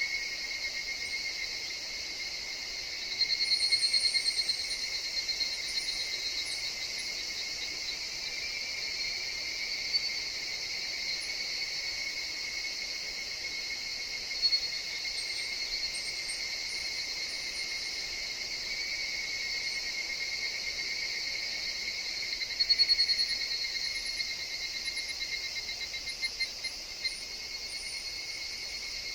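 Chorus of higurashi (evening cicadas, Tanna japonensis) singing steadily, with two louder, rapidly pulsing calls from a nearer cicada, one about three seconds in and one about three quarters of the way through.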